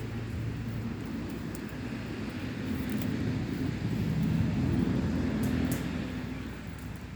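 A motor vehicle's low engine rumble, growing louder and then fading as it passes by.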